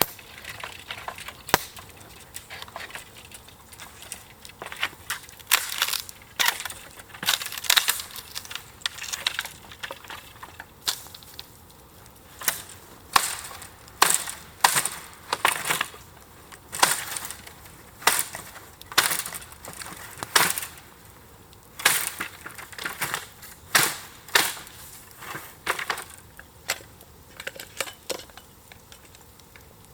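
Dry wood cracking and snapping in a long, irregular run of sharp cracks, sometimes several a second, loudest in the middle stretch.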